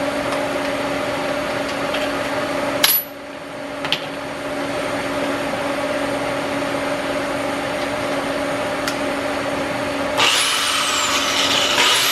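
AC TIG welding arc on cast aluminium, a steady buzz with a hiss, broken off briefly about three seconds in. A louder hiss with a falling whistle comes in near the end.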